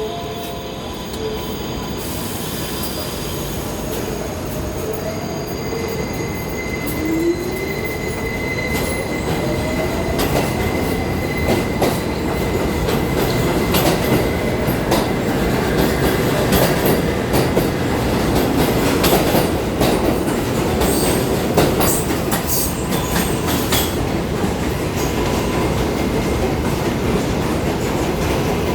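New York City subway train moving through the station: a motor whine rising in pitch as it gathers speed, a high steady wheel squeal, then a long run of rapid wheel clicks over the rail joints as it gets louder.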